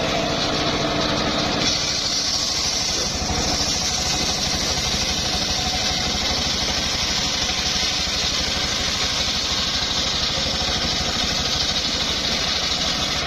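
Engine-driven homemade circular sawmill running. About two seconds in, the blade goes into an old, fairly hard mahogany log, and the engine's even note gives way to a steady cutting hiss with the engine working under load.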